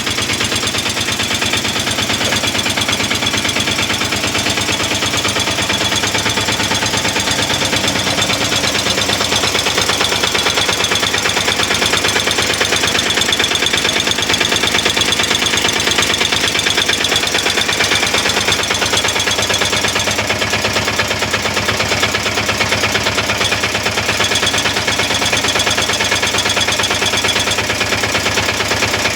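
Bajaj diesel auto-rickshaw engine running with a rapid, steady clatter.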